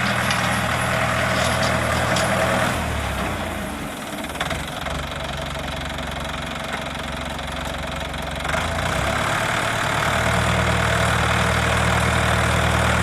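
Diesel engine of an Australis 35/40 HP 4WD tractor running. It drops to a lower, quieter speed about three seconds in and picks back up about eight and a half seconds in.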